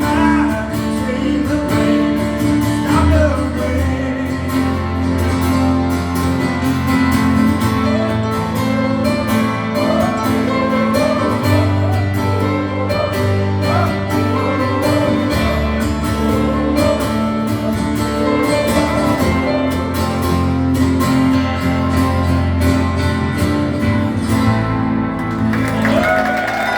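Live acoustic guitar playing steady chords while a voice sings a wavering melody over it.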